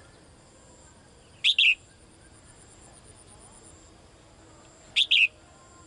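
Caged female songbird calling to a male: two sharp double-note calls, about three and a half seconds apart.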